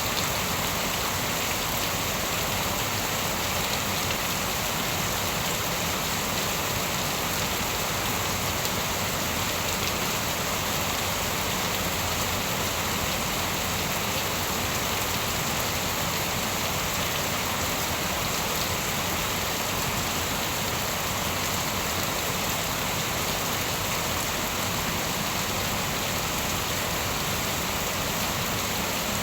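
Steady, even rain falling on surfaces, with no thunder or distinct strikes.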